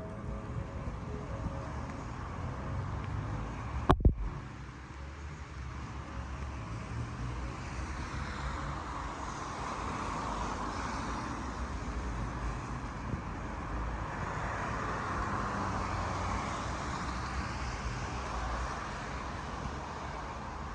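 Cars passing on a wet road: tyre hiss and engine noise that swell and fade twice. A single sharp knock about four seconds in.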